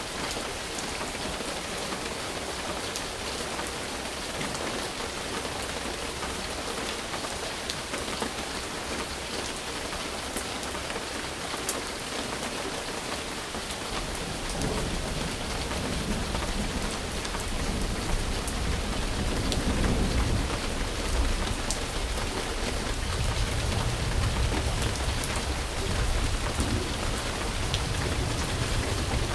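Steady rain falling, with scattered sharp drop ticks. About halfway through, a low rumble of thunder comes in and the sound grows a little louder.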